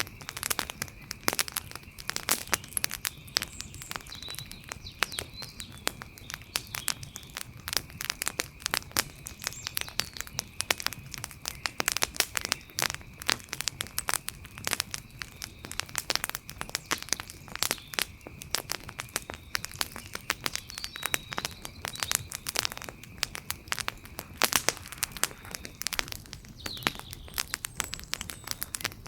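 Wood fire crackling, with dense, irregular pops and snaps, over a steady high-pitched tone and a few faint chirps.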